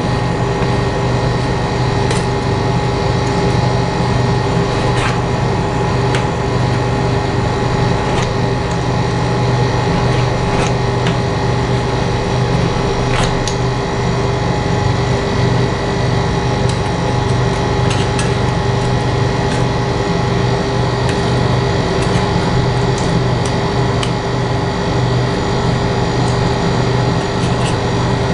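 Street-food stall cooking equipment humming steadily, with metal cooking tools tapping and scraping on a metal plate every second or two.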